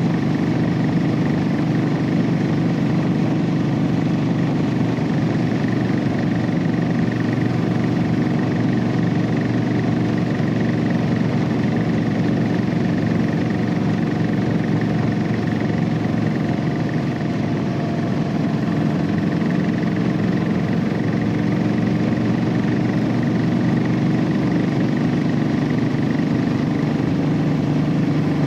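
Royal Enfield Classic 500's single-cylinder engine running through its stock exhaust as the motorcycle cruises at a steady pace, easing off slightly just past the middle before settling back.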